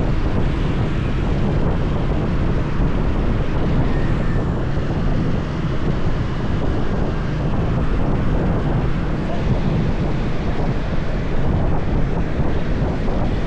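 Wind rushing over the microphone of a moving motorbike, mixed with the steady noise of the engine, tyres and road traffic.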